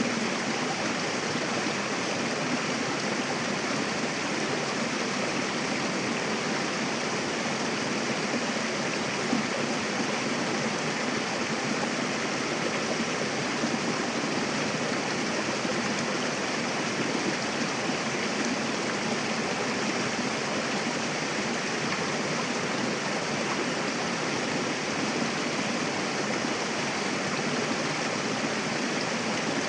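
Mountain river rushing and splashing steadily over rocks, a continuous even wash of water.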